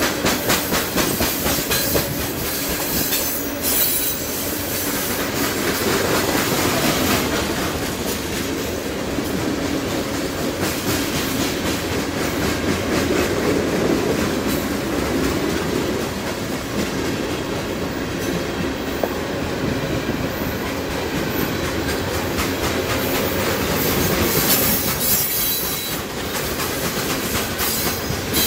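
CSX freight train of open-top hopper cars rolling steadily past a level crossing: a continuous rumble of steel wheels on the rails with a regular clickety-clack of the wheels over the rail joints.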